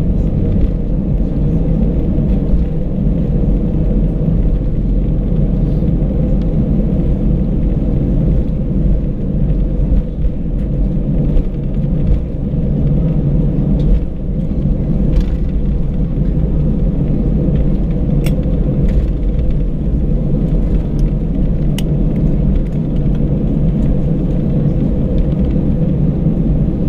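Airbus A319 cabin noise: the steady rumble of the jet engines and the airflow around the fuselage, heard from a window seat, with a couple of faint clicks in the second half.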